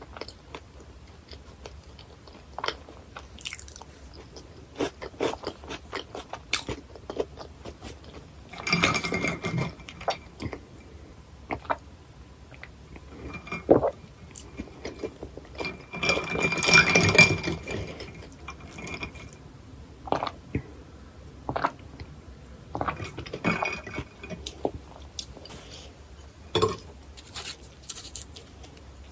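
Close-miked chewing and crunching of bone-in sliced raw gizzard shad, with many small sharp crunches, and two longer, louder stretches of noise about nine and seventeen seconds in.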